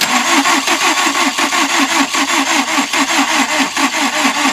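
2003 Nissan Altima's 2.5-litre four-cylinder engine being cranked by its starter motor, a steady, even rhythm of about six or seven beats a second that begins suddenly, without the engine firing. This is the no-start fault: the camshaft position sensor's signal is weak and slow, so the computer sends no spark to the coils.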